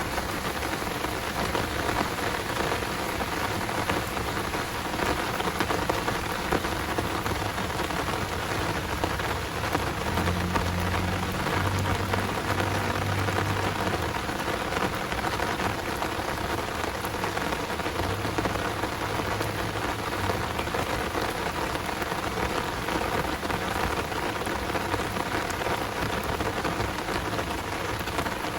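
Heavy rain pouring steadily. A low rumble comes in about a third of the way through and again just past the middle.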